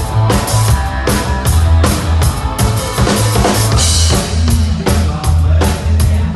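Rock band playing without vocals: a drum kit keeps a steady beat of kick and snare hits with cymbals over a heavy, sustained bass.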